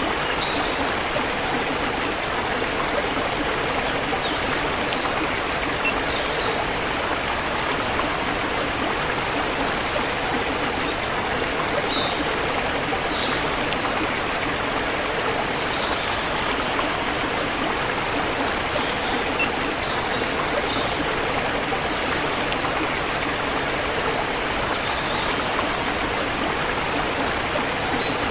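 Forest river flowing steadily with an even rushing of water. Faint, short bird chirps come in now and then above it.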